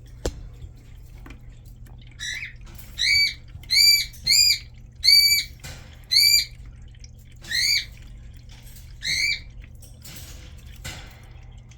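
Pet parrot calling: a series of about eight short, clear call notes, each rising, holding and dropping, spaced roughly a second apart. A brief soft rustle follows near the end.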